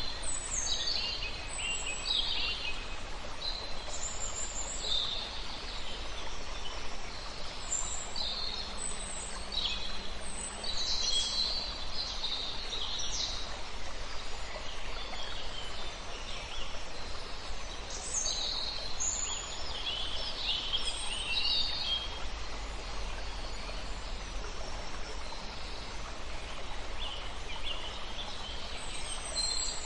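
Songbirds chirping and singing in many short, high calls over the steady rush of a river. The calls thin out for a few seconds about three-quarters of the way through, then pick up again.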